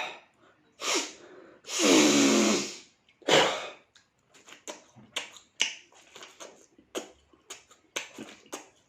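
A man's loud breathy exhales, three in the first few seconds with the middle one lasting about a second: the hard 'hah' breaths of someone who has just downed strong liquor. They are followed by a run of short sharp clicks or smacks.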